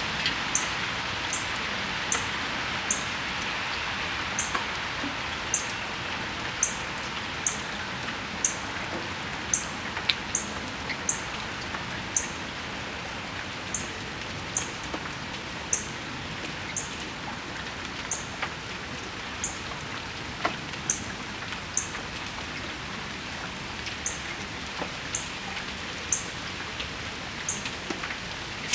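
Steady rain falling on the patio and yard. Over it, a small bird gives short, high chirps, repeating irregularly about once or twice a second.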